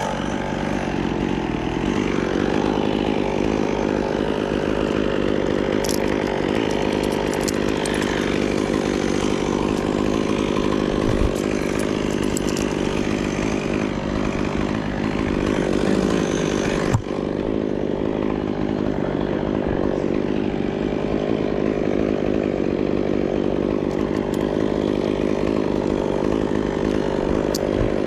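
Chainsaw running steadily at speed through a cut, with one brief sharp break about seventeen seconds in.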